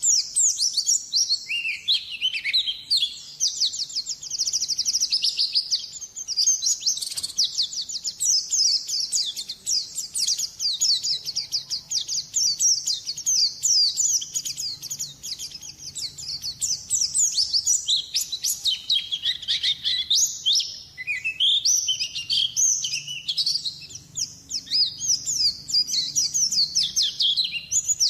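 White-eye (pleci) singing a fast, unbroken high twittering song of rapid chirps and quick falling notes, a recording used as a lure call.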